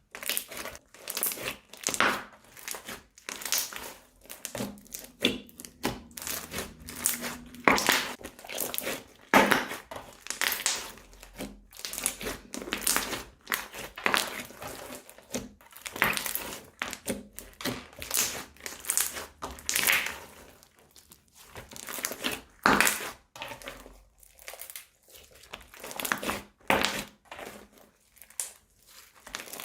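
Slime being squeezed and pressed by hand, giving dense, irregular crackling and crinkling, with short pauses between handfuls.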